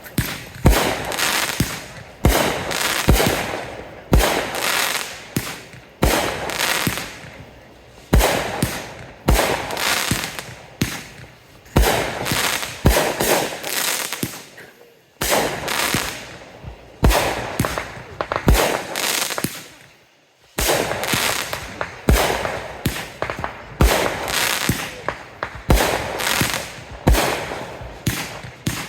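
Fireworks going off in a rapid series of sharp bangs, several a second, each with an echoing tail, easing off briefly twice before picking up again.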